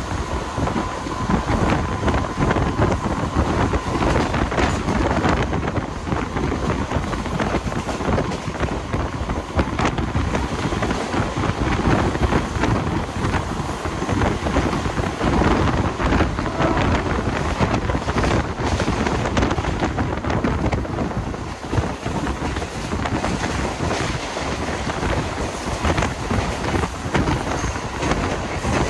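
Wind rushing over the microphone at the open doorway of a Mumbai suburban EMU local train running at speed, near its 100 km/h top speed. Under it is the steady rumble and clatter of the train's wheels on the rails.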